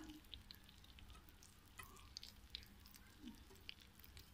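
Faint sizzling of an omelet frying slowly in ghee in a pan, with scattered small crackles and pops.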